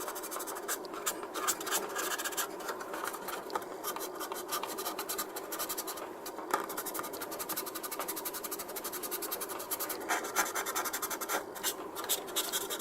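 Sponge sanding file on a skewer handle rubbing back and forth over a plastic model kit's joint, a fast run of scratchy strokes as the seam is smoothed.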